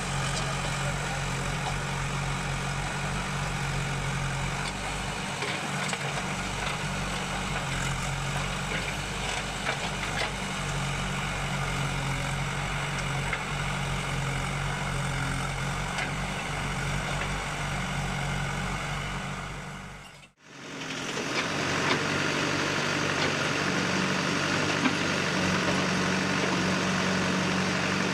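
Diesel engines of a JCB backhoe loader and a tractor running steadily while soil is loaded, with a few faint knocks. About twenty seconds in the sound cuts out abruptly and fades back in, and the engine note is different afterwards.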